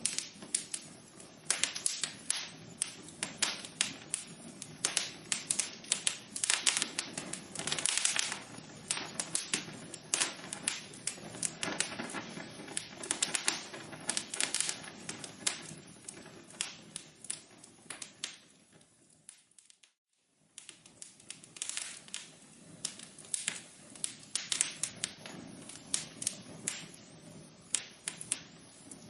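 Wood fire crackling: dense, irregular pops and snaps over a soft hiss. The sound fades away to near silence for about a second roughly two-thirds of the way through, then picks up again.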